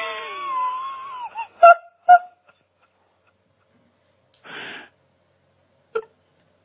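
Hairless Sphynx cat yowling: a long wavering cry that breaks off about a second and a half in, then two short, sharp, loud yowls. A short hiss follows a couple of seconds later, and a brief yelp near the end.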